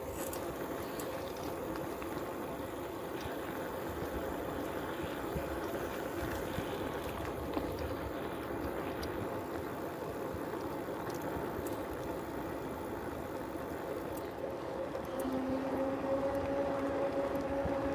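Rolling tyres and wind noise of a bicycle ride on a road, a steady rushing with a faint hum. About three-quarters of the way through, a steadier low hum joins and the sound grows a little louder.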